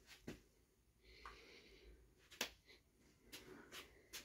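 Near silence: room tone with a few faint clicks and taps.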